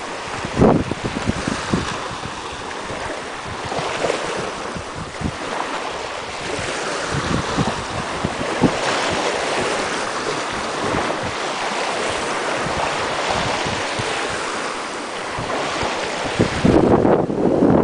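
Sea waves washing on the shore, with wind buffeting the microphone in low rumbling gusts, strongest near the start and again near the end.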